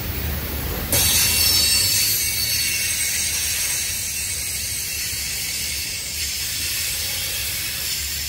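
Freight train of covered hopper cars rolling past with a steady low rumble. About a second in, a loud high-pitched hiss and squeal from the wheels on the rails sets in and slowly eases.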